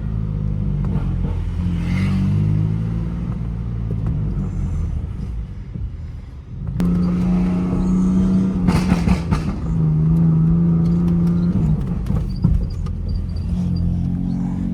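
A car driving, heard from inside the cabin: a steady low engine and road rumble that dips briefly about six seconds in, then drones at a held pitch that steps down a little, with short rattles in between.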